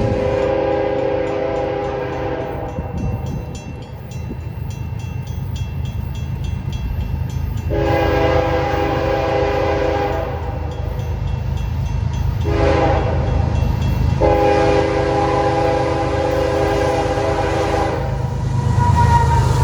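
Diesel freight locomotive horn sounding the grade-crossing signal: two long blasts, a short one and a long one, each a chord of several tones. Under it is the steady low rumble of the train.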